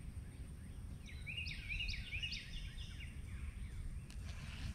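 A songbird sings a quick run of repeated rising-and-falling chirps for a couple of seconds, over a steady low rumble in the background.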